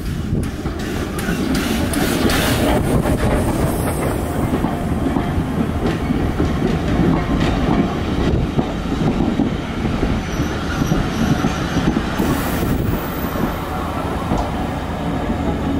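Vintage Southern Railway passenger carriages rolling past a platform: a steady rumble of wheels with a clatter over the rail joints.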